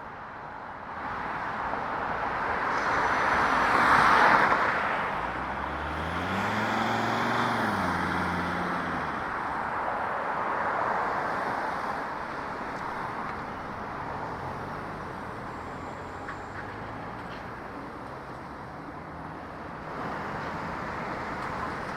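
Road traffic passing close by. A vehicle goes by loudly about four seconds in, then a motor vehicle's engine rises and falls in pitch a few seconds later, with more traffic hum after.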